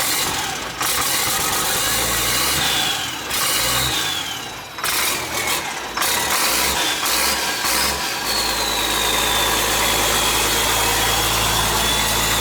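International DT466 inline-six diesel, freshly rebuilt and just started, running rough and uneven, not yet firing on all cylinders, then settling into a steady idle about eight seconds in. A high whistle falls in pitch and levels out over the engine in the second half.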